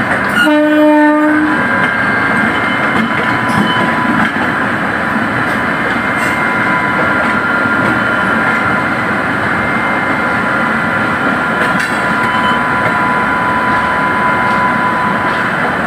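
A short blast of an electric locomotive's horn, about half a second in and lasting about a second. Then the steady running noise of two trains side by side at speed: wheels on rails with a thin steady whine over it.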